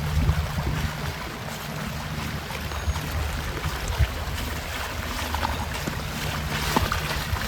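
Floodwater sloshing and splashing in a flooded street, with a steady low engine hum and a few short knocks.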